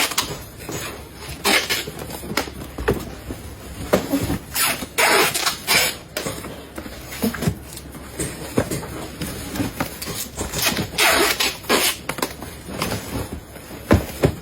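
Irregular knocks, clacks and rustles from hand work on exam writing pads, several a second, with no steady rhythm.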